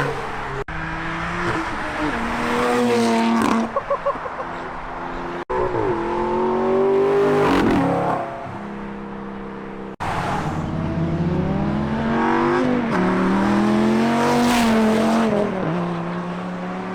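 Sports-car engines revving hard and accelerating past in a series of fly-bys, the exhaust note climbing and dropping in pitch several times. There is a brief rapid stutter in the exhaust about four seconds in, and the sound breaks off abruptly between passes.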